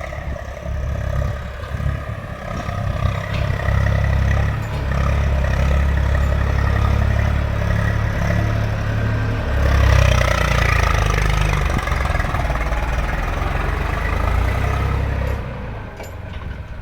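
Tractor engine running hard under load while dragging a soil scraper through earth, a steady low drone that grows louder about three seconds in and eases off near the end.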